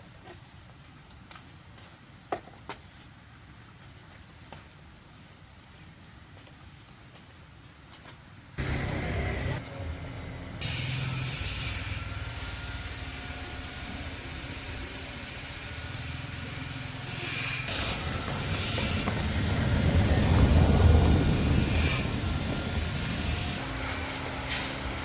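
Quiet with a few light clicks, then an abrupt switch to a steady vehicle or engine noise with a low hum, which swells to its loudest about two-thirds of the way through.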